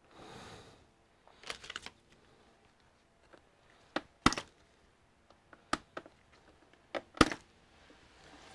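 Sharp clicks and knocks of plastic computer parts being handled and pressed into place, a soft rustle first, then a quick cluster and about six separate clicks, the loudest near the middle and near the end.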